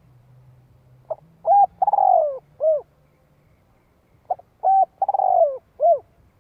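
Spotted dove cooing: two phrases about three seconds apart, each a quick short note, a coo, a long falling slurred coo and a final short coo.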